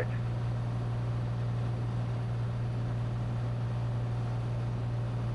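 Cessna 182T's six-cylinder Lycoming IO-540 engine and propeller droning steadily in cruise, as heard in the cabin: an even low hum under a wash of noise.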